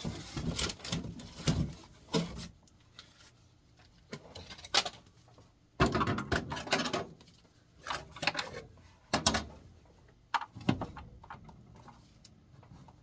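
Irregular clattering and knocking of metal furnace parts being handled during a blower motor replacement, in several short bursts separated by quieter gaps.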